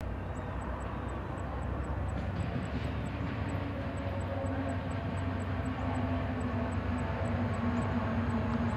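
VIA Rail F40PH-2 diesel-electric locomotive approaching, its engine drone steady and growing gradually louder.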